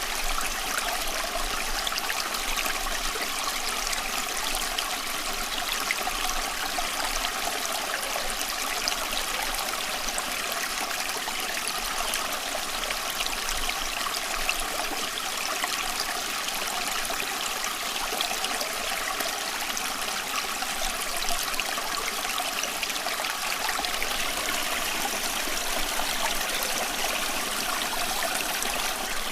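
Running water flowing steadily, like a small stream, with fine trickling and splashing throughout and no change in level.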